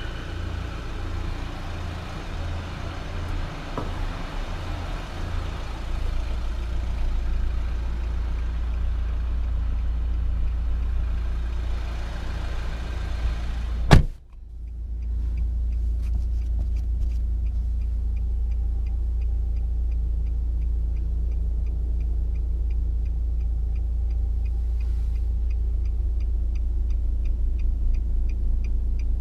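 Nissan Juke 1.5 dCi four-cylinder turbodiesel running at idle with a steady low hum. A car door shuts once about halfway through. After that the engine sounds muffled and even, with a faint regular ticking.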